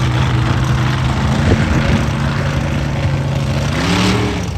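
A vehicle engine running steadily, then revving up briefly near the end.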